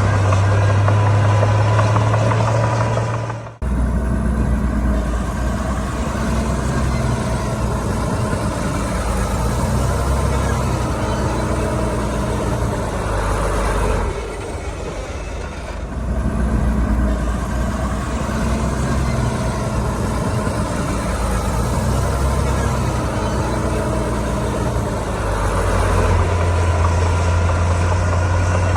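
Heavy diesel engine running steadily under work, from a Komatsu D41P bulldozer spreading sand fill. The engine note breaks off sharply about three and a half seconds in and comes back at a different pitch, then dips and shifts again about halfway through.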